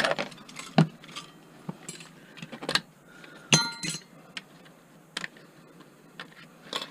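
Scattered sharp clicks and clinks of metal computer parts being pried and handled during teardown, with one short metallic ring about three and a half seconds in.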